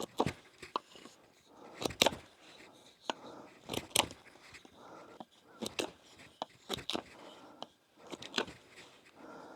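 Knife whittling a wooden stick: irregular sharp cuts and short scraping strokes as shavings are carved off to slim the handle of a wooden spatula.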